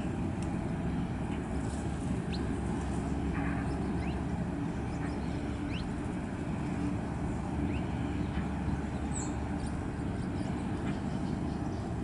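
Steady low rumble with a few faint, short, high bird chirps scattered through it, about one every second or two.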